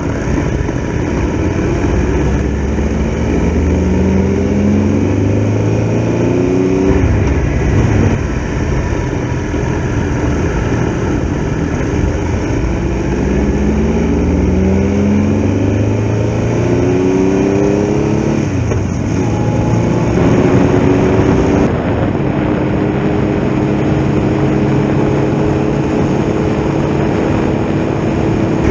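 Triumph Tiger Explorer XRx's three-cylinder engine accelerating through the gears, its pitch rising and dropping back at each shift, then holding a steady cruise from about two thirds of the way in, over a steady rush of wind and road noise.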